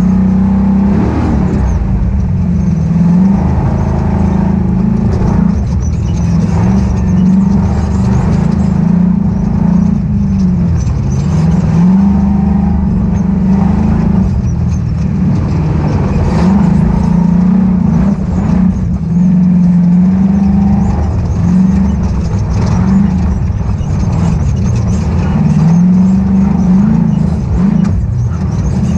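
Ultra4 off-road race car's engine running loud, its pitch rising and falling over and over as the throttle is worked on and off.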